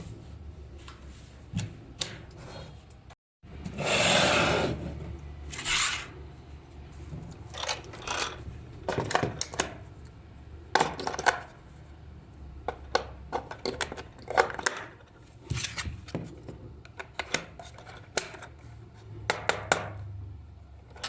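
Small hard objects being handled: a run of irregular clicks and taps, with a longer scraping rustle about four seconds in.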